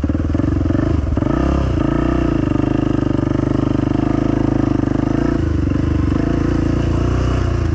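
Dirt bike engine running at low speed. Its pitch rises and falls slightly in the first couple of seconds, then holds steady.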